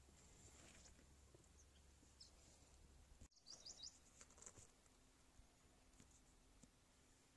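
Near silence: faint outdoor quiet with a few faint high bird chirps, including a quick run of four chirps about three and a half seconds in.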